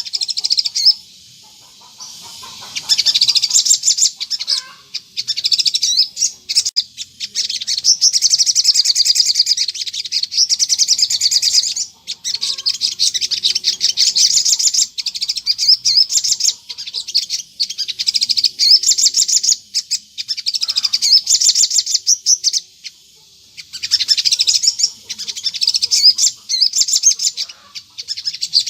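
Sogon bird singing a rapid, high-pitched chattering song in long continuous phrases with brief pauses, the 'ngleper' song used as a lure to draw wild sogon birds into answering.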